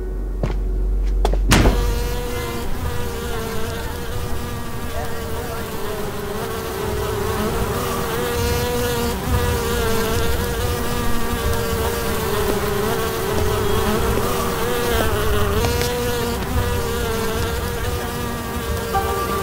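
A steady buzzing drone that wavers slightly in pitch, with many overtones, coming in with a sudden cut about a second and a half in.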